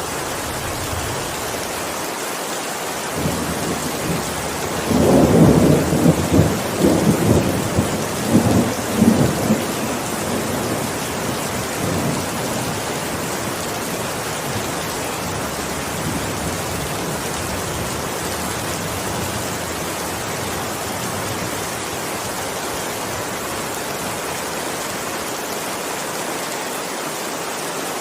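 Steady heavy rain hissing, with a thunderclap that rolls in a few seconds in, crackles and rumbles loudest for several seconds, then fades back under the rain.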